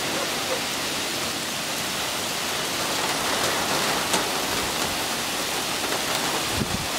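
Heavy rain falling steadily in a summer thunderstorm downpour, an even hiss of rain on pavement, cars and trees.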